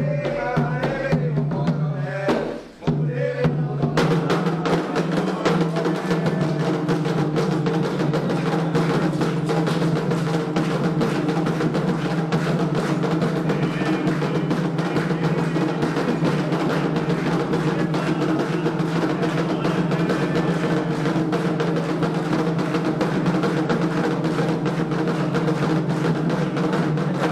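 Candomblé ritual drumming on atabaque hand drums in a fast, dense, unbroken rhythm that starts about four seconds in, after a short break. At the start a voice is heard singing over the music.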